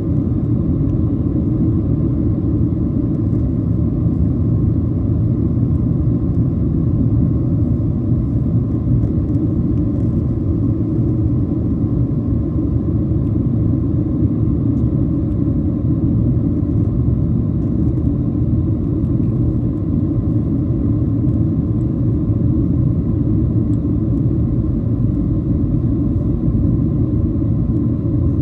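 Steady cabin rumble of a Boeing 737-700 heard from a window seat: engine and airflow noise from its CFM56-7B turbofans, even and unchanging, with a faint steady hum over the low roar.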